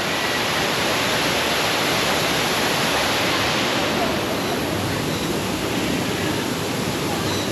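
Steady, dense rush of a large waterfall pouring into a pool.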